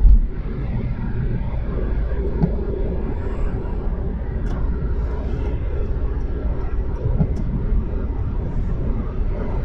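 Steady low rumble of a car's tires running through wet snow and slush on the road, heard from inside the cabin, with a short thump right at the start.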